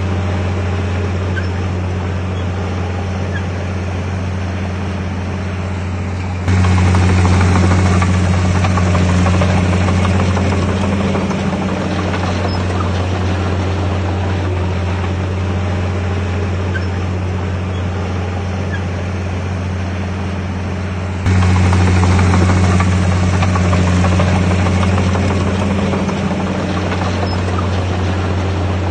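A bulldozer's diesel engine runs steadily with a strong low hum. Twice it jumps suddenly louder, then eases back down.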